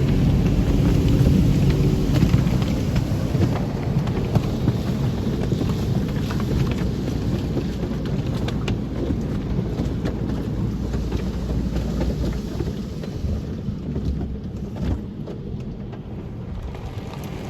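Tunnel car wash at work: water spraying and drumming on the car with a low machinery rumble, slowly fading toward the end.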